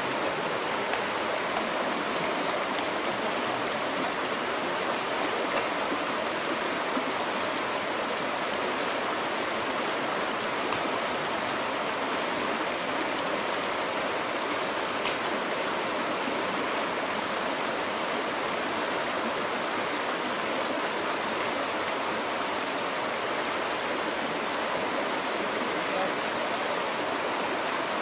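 Steady rushing of a stream or river, with a few faint ticks over it.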